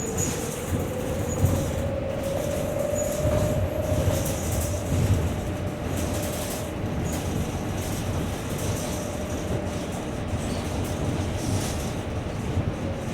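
Cabin of a New Flyer Xcelsior XT40 electric trolleybus under way: the Vossloh Kiepe traction motor's whine climbs in pitch for the first few seconds and then holds steady, over road rumble and rattling of the body.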